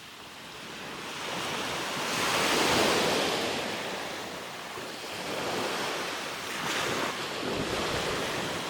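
Sea waves washing onto a beach, the surf swelling up about three seconds in and again about seven seconds in, with wind blowing on the microphone.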